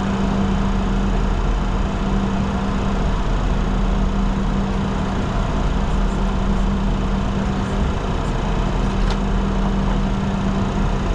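Steady cockpit noise of a Bombardier Challenger 604 in flight: a constant rush of air with a low, even hum, and a faint click about nine seconds in.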